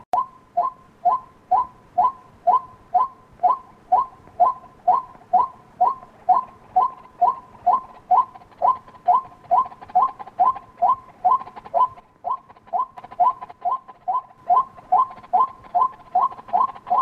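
White-breasted waterhen calling, played as a lure for daytime hunting: a steady, monotonous run of short 'kwak' notes, a little over two a second.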